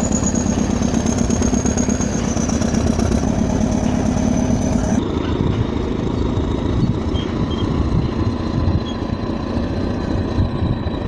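Heavy machinery engine running steadily, with a steady low hum and a faint high whine that sinks slightly. About halfway through the sound changes abruptly to a rougher, duller engine rumble.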